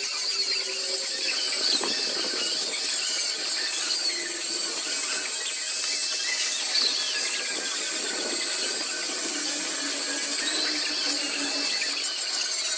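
High-speed rotary carving tool cutting into wood, a steady high whine and hiss whose pitch wavers slightly as the bit loads and unloads.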